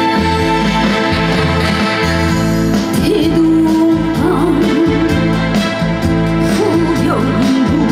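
Live trot song: band accompaniment with a woman singing, her voice coming in with a wavering vibrato about three seconds in.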